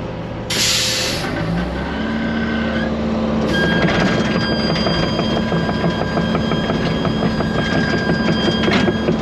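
A short hiss about half a second in, then a heavy machine's diesel engine picks up speed and runs steadily, with a steady whine and a busy clatter over it.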